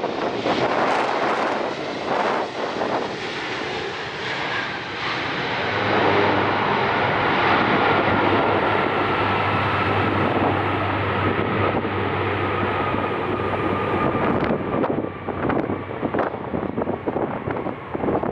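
An airliner passing close by, its engine roar swelling through the middle with a faint whine that slowly falls in pitch. Gusts of wind buffet the microphone near the end.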